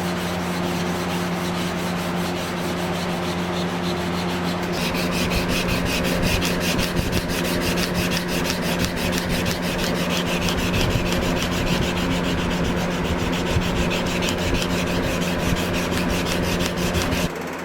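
2x72 belt grinder running with a steady motor hum while steel is ground against the belt. About five seconds in, a brighter grinding hiss with a rapid even pulse starts, and it breaks off abruptly near the end.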